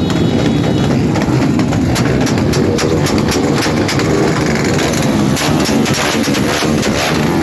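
Small-displacement motorcycle engines running, with many short sharp pops or clicks scattered through the sound.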